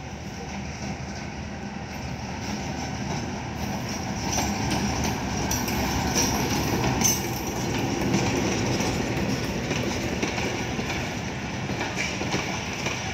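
A Pakistan Railways GE U20C (GEU-20) diesel-electric locomotive hauls a passenger train in along the platform, its engine running and wheels clicking over the rail joints. It grows louder from about three seconds in as the locomotive draws level, and the coaches then roll past.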